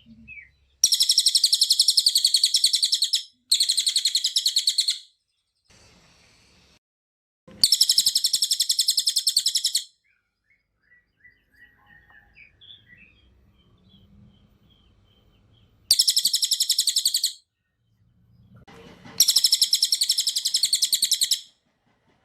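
Cililin songbird singing in loud bursts of very rapid, high repeated notes: five bursts of about two seconds each, with faint chirps in the gaps.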